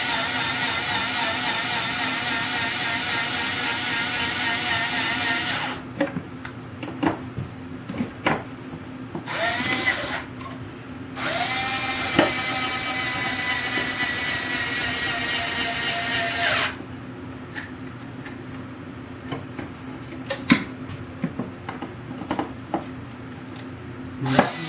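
Small cordless drill driving a screw: the motor whines for about six seconds and stops, spins up briefly, then runs again for about five seconds with its pitch slowly sagging, a sign of a battery running low. Light clicks and knocks in the pauses.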